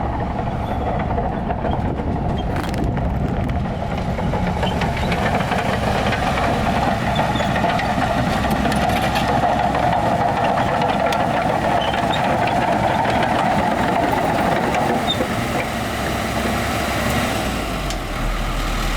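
Heavy diesel earthmoving machinery running steadily, its engine note growing stronger for several seconds in the middle and then easing off.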